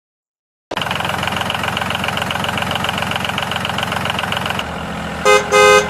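A small engine running with a fast, regular beat. It starts abruptly about a second in and drops to a lower, steadier note a little before the end. Two short, loud beeps like a horn sound near the end.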